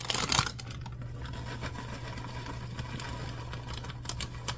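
A brief crinkly rustle of a plastic bag of shredded cheese as the cheese is shaken in. Then a steady low hum with a few light clicks.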